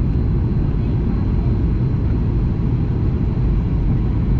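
Steady low rumble inside the passenger cabin of a Boeing 737 MAX 8 in flight: its CFM LEAP-1B engines and the airflow over the airframe, with a faint steady high tone above it.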